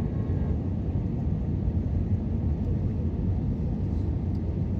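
Airbus A320neo cabin noise: a steady low rumble of engines and airflow, heard from inside the cabin at a window seat.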